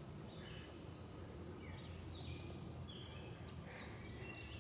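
Birds chirping faintly, several short high calls scattered through, over a steady low outdoor background noise.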